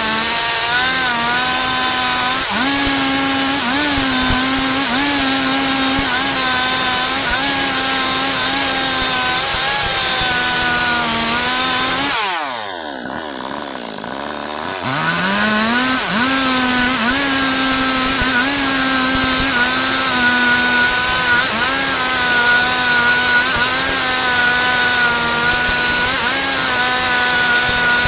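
Stihl MS 382 two-stroke chainsaw running at high revs while ripping a log into boards, its pitch wavering as the chain loads up in the wood. About twelve seconds in the revs fall away, then climb back about three seconds later.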